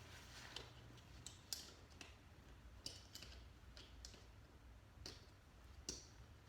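Faint, irregular clicks and rustles of a dog vest's straps and buckles being handled and adjusted as it is fitted on a dog.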